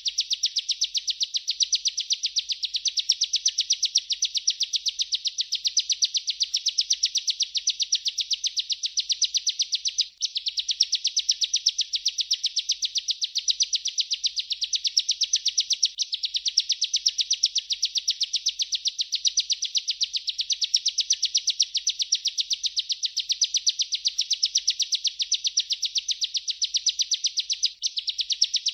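Bar-winged prinia (ciblek) singing its continuous rolling song, a fast unbroken string of high, sharp chirping notes. It breaks off briefly about ten seconds in and again near the end.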